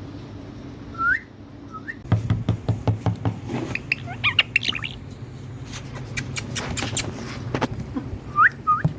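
Indian ringneck parrot giving short rising chirps, then a run of sharp clicks mixed with high chirps from about two seconds in, and two more rising chirps near the end.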